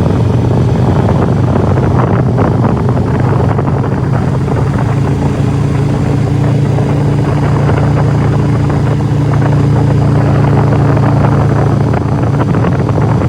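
Harley-Davidson Street Glide motorcycle engine running steadily under way at a constant speed, a low, even engine hum with a slightly higher steady tone joining about five seconds in.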